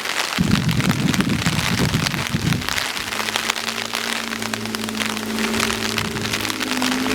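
Exhaust of a Nissan Roox's 660 cc three-cylinder K6A engine through an aftermarket Samurai Power rear muffler while driving: an uneven rumble for the first few seconds, then a steady drone held constant by the CVT. A constant hiss of road or wind noise runs under it.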